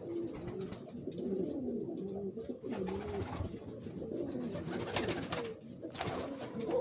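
Domestic pigeons cooing continuously, with a trumpeter pigeon's long rolling trumpeting call among them. A few sharp clicks sound about five seconds in.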